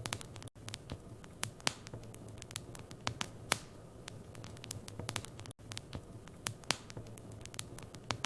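Wood fire burning in a fireplace, crackling with irregular sharp pops and snaps over a low steady hum. The sound cuts out very briefly twice.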